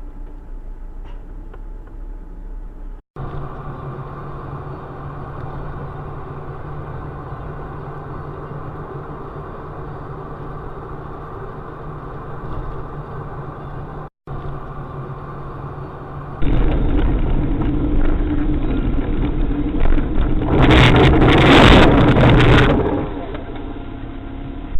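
Car engine and road noise heard from inside a moving car, a steady hum, broken by two abrupt cuts. Near the end it turns much louder, with a harsh noise burst lasting about two seconds.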